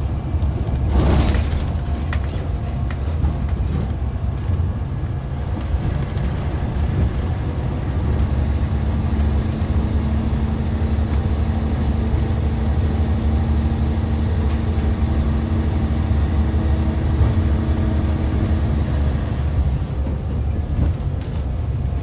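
Hyundai D6CC Powertec 380 six-cylinder diesel engine of a Hyundai Universe coach running steadily under way, a deep drone with a steady tone holding through the middle. A short burst of noise comes about a second in.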